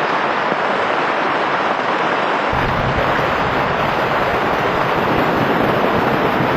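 Steady heavy rain hissing, with a low rumble joining suddenly about two and a half seconds in.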